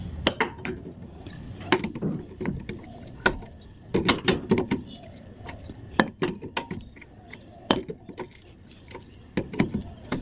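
Irregular metallic clicks and knocks of a spanner working the large 30 mm axle nut loose on a rear wheel hub.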